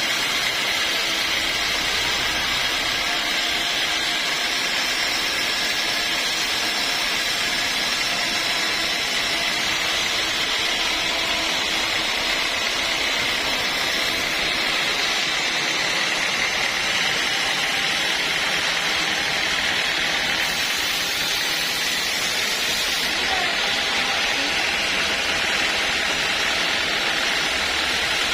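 Sawmill saw running steadily, a constant mechanical noise with a steady high tone over it.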